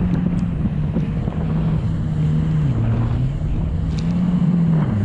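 Jet ski engine running with no rider aboard, its pitch dropping, rising and dropping again as the revs change. It keeps running because nobody has reached the stop button.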